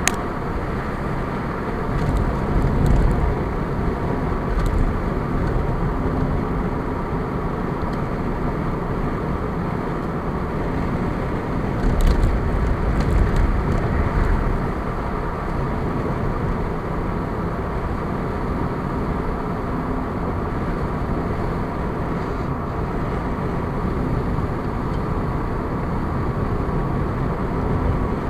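A car driving along a road: steady engine and tyre noise, with louder low rumbles about two seconds in and around twelve seconds.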